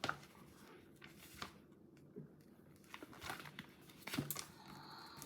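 Faint rustling and a few soft clicks of a book's paper page being handled and turned.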